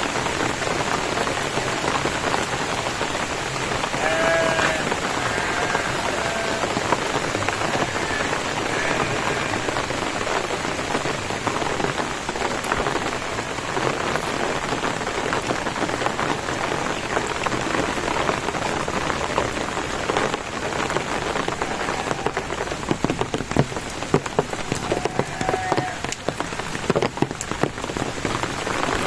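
Steady rain falling on surfaces, with sharp close drop ticks growing denser in the second half. A few short faint calls rise over the rain about four to seven seconds in and again near twenty-five seconds.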